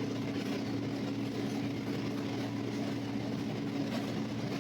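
Steady running noise of a passenger train heard from inside the carriage: a constant low hum over an even rumble.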